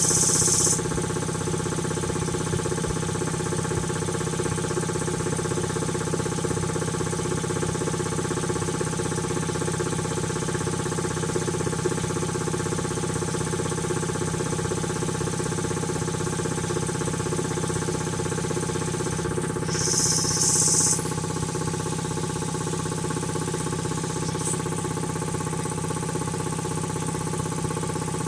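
Freshly rebuilt Quincy QT-5 two-stage air compressor pump running steadily on its first run. Short bursts of high hiss come at the start and again about twenty seconds in.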